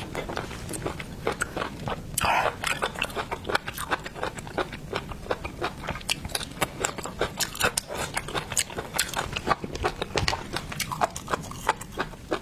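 Close-miked eating of shellfish: dense, irregular crackling and clicking of shells being bitten and pulled apart, mixed with chewing, several clicks a second, with a louder brief crunch about two seconds in.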